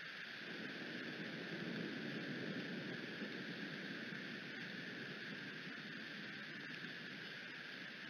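Steady rain and wind noise on an outdoor nest camera's microphone. A gust swells about a second in and eases off by the middle.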